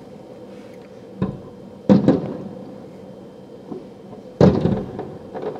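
Aerial fireworks shells bursting: three booms, a smaller one about a second in, then a loud one about two seconds in and another past the middle, each trailing off in an echo.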